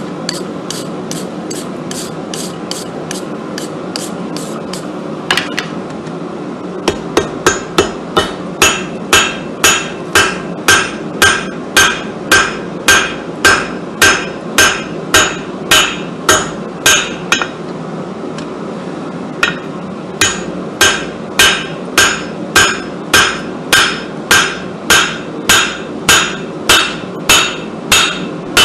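Hand hammer forging hot Damascus steel on an anvil, each strike ringing. It opens with a few seconds of lighter, quicker taps. Then come steady heavy blows about two a second, broken once by a pause of about two seconds, over a constant steady hum.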